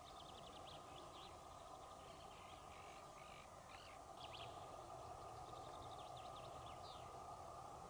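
Faint songbird chirps and quick trills, many short high notes in a row, over a steady background hiss.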